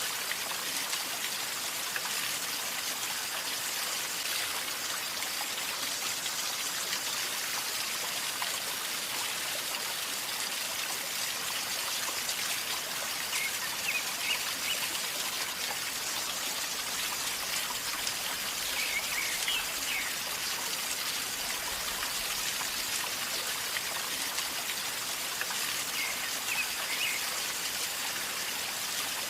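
River flowing calmly with a steady gurgling rush of water. A few short high chirps come and go three times.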